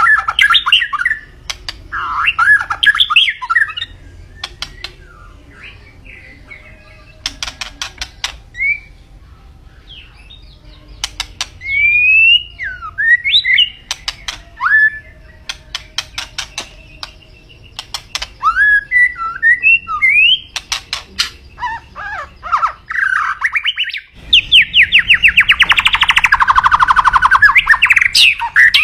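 White-rumped shama (murai batu) singing a varied song of clear whistles that glide up and down, broken by quick runs of clicking notes. Near the end it gives a loud, fast rattling trill lasting about four seconds.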